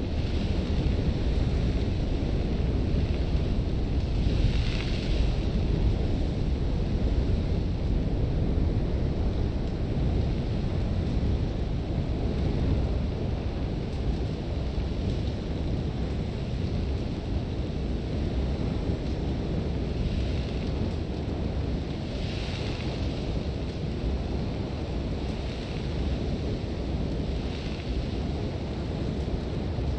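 Sandstorm wind buffeting, a dense, steady low rumble. Now and then a gust brings a brighter hiss of blowing sand, most clearly about five seconds in and again past the twenty-second mark.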